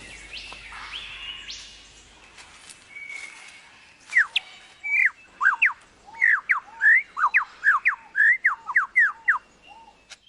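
Superb lyrebird singing: a rapid run of loud, sharp, mostly falling whistled notes starting about four seconds in, after a few seconds of fainter rising whistles from forest birds.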